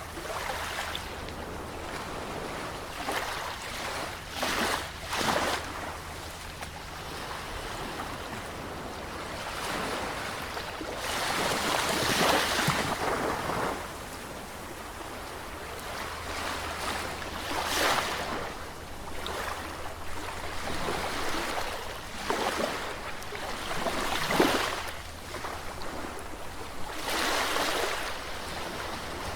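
Sea waves breaking on the shore, each one a rushing surge of surf that swells and washes back, coming irregularly every few seconds. The biggest break comes about halfway through, with another a little before the end.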